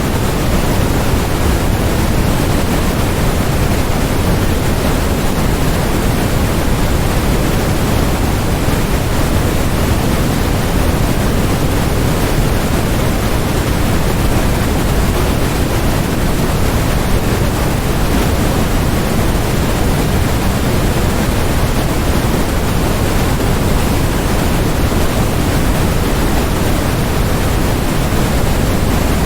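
Steady, unchanging generated noise sold as white noise: an even rushing hiss across all pitches, a little fuller in the low end, with no breaks or changes.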